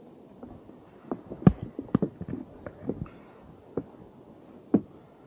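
Footsteps thudding on a wooden boardwalk, uneven knocks at a walking pace, with two heavier thumps, one about a second and a half in and one near the end.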